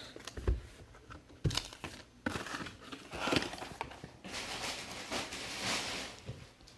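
Trading card pack wrappers crinkling and tearing open while cards are handled, in several irregular bursts with a few light clicks.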